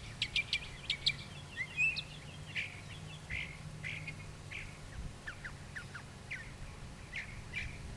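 Birds chirping: a quick run of sharp, high chirps in the first second, then scattered short chirps. A steady low hum runs underneath.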